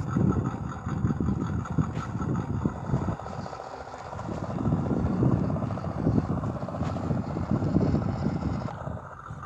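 Radio-controlled scale Ural 4320 truck driving over loose soil, its motor and drivetrain running with an engine-like sound that rises and falls. It eases off briefly about three and a half seconds in.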